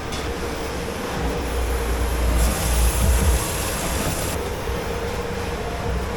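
Steady mechanical hum and rumble of commercial dish-pit machinery, with a hissing burst lasting about two seconds around the middle.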